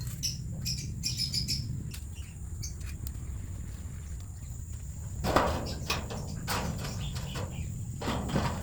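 Chickens in a coop chirping and calling, with a louder burst about five seconds in, over a steady low rumble.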